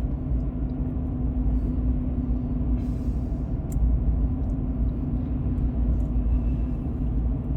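Steady low road rumble inside a moving car, tyres and engine, with a constant hum.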